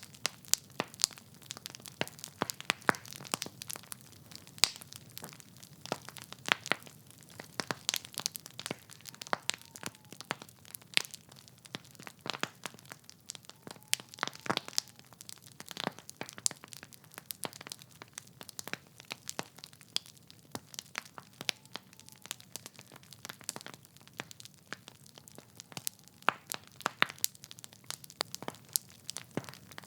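Wood fire in a fireplace crackling: burning logs give irregular pops and snaps, several a second, over a soft steady hiss of the flames, with a few louder snaps scattered through.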